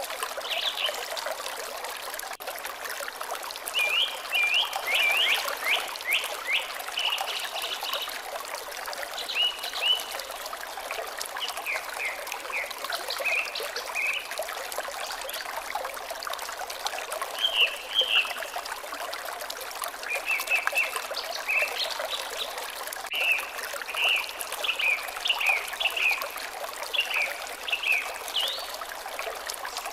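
Water trickling steadily, with small birds chirping over it in quick runs of short notes.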